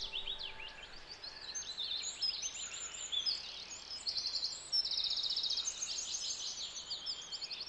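Several birds singing and chirping over a faint background hiss, with short chirps and a couple of rapid, even trills.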